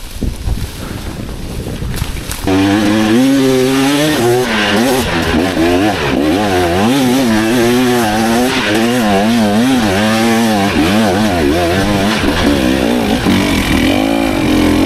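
2024 KTM 300 EXC TBI's single-cylinder two-stroke enduro engine, running on its soft power map. After a quieter couple of seconds with knocks and clatter, it comes in loud about two and a half seconds in, its pitch rising and falling constantly as the throttle is worked.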